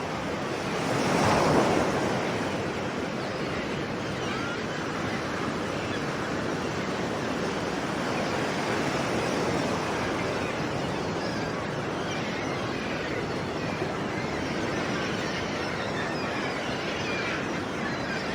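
Sea waves washing onto a shore: one wave breaks louder about a second in, then a steady rushing surf with gentler swells, with some wind.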